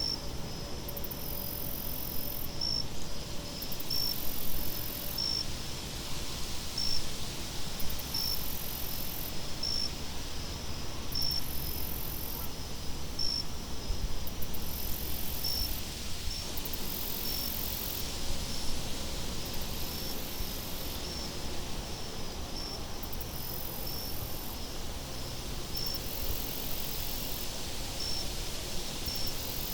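Crickets chirping in an even rhythm, about one chirp every second and a half, over a higher insect buzz that comes and goes every couple of seconds. A steady low wind rumble lies underneath.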